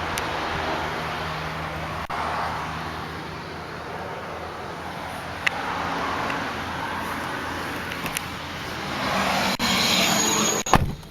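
Road traffic going by, with a steady engine hum and a vehicle passing near the end, then a single heavy thud, like a car door shutting, that cuts the outside noise off.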